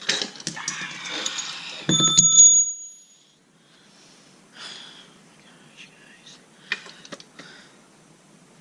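Scraping and handling noise, then about two seconds in a loud metallic clank that rings briefly like a bell, as a metal tool or bike part is struck or set down. A couple of faint clicks follow near the end.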